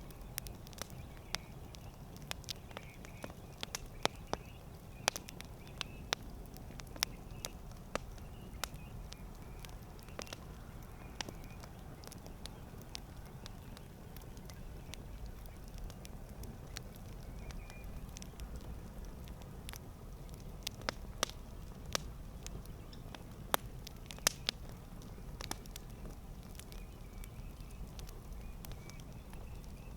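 Campfire crackling: irregular sharp pops and snaps of burning wood over a low, steady rumble of the flames. The pops come thick in the first several seconds, thin out through the middle, and pick up again in a second cluster later on.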